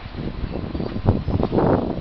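Stadler FLIRT electric multiple unit (ETR 170) approaching slowly, its running noise mixed with wind gusting on the microphone in uneven surges.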